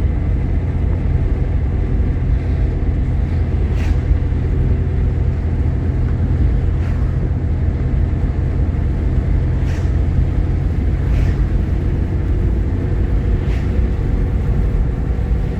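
Jeep Grand Cherokee driving, a steady low rumble of engine and road noise heard from inside the cabin, with a few faint ticks.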